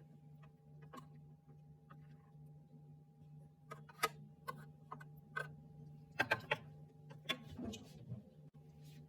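A steady low electrical hum with a few sharp clicks, then a quick run of clicks and light knocks in the second half.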